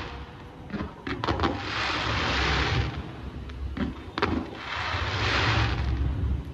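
Fireworks show: sharp bangs of shells bursting, about a second in and again near four seconds, each followed by a second or so of hissing crackle from the burst, over a low rumble.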